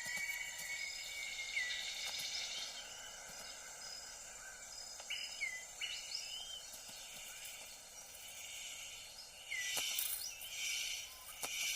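Tropical rainforest ambience: a steady high insect drone, with short hooked bird chirps coming and going. Near the end come a few louder bursts of rustling noise.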